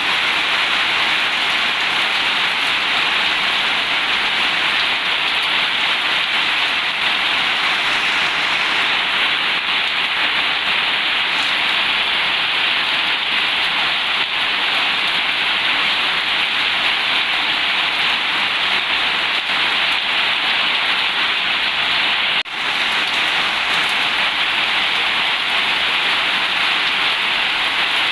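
Heavy rain falling steadily on a corrugated zinc roof, a dense even hiss, with a momentary dip in level about twenty-two seconds in.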